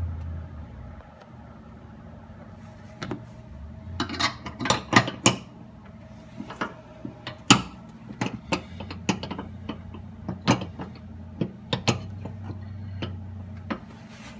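Irregular sharp metallic clinks and knocks of parts and hand tools being handled and fitted, with a quick cluster about four to five seconds in, over a low steady hum.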